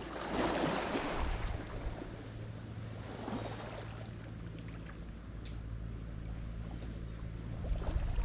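Lake Michigan waves washing onto the shore: one wave breaks loudly in the first second or so, a smaller one about three seconds in, and another builds near the end, over a steady low hum.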